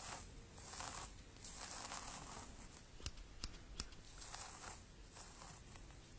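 Soft crinkling and rustling of handled material, in several short bursts with a few light clicks.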